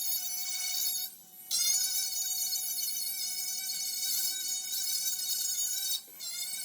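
Electric angle grinder fitted with a grinding pad, running with a steady high whine while stripping old paint from a steel truck door. It cuts out briefly twice, about a second in and again near the end, and after the first break comes back with a rising whine as it spins up.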